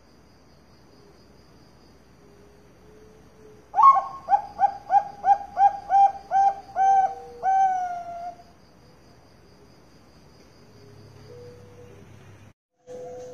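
Zebra dove (Bangkok-line perkutut) cooing: about four seconds in, a quick run of about ten short clipped notes, then one longer note that slides down. A faint, high, rapid chirping continues underneath.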